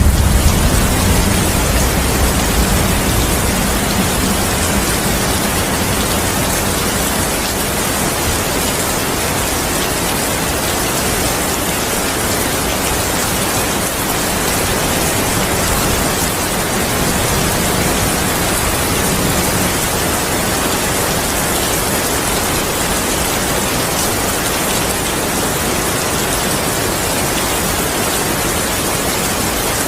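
Heavy rain falling steadily, a dense even hiss. A low thunder rumble dies away in the first few seconds.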